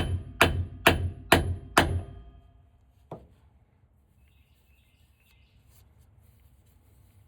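Hammer striking a seal driver, tapping the rear pinion seal into a GM 10-bolt differential housing. There are about five evenly spaced ringing metal strikes, roughly two a second, that stop about two seconds in, then one light knock about three seconds in.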